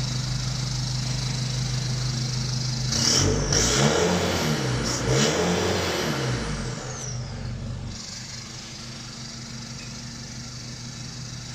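Nissan Navara's diesel engine through a newly fitted HKS full exhaust: it idles, is revved in a few quick blips about three seconds in, then settles back to a steady idle. The exhaust is sealed with no leaks.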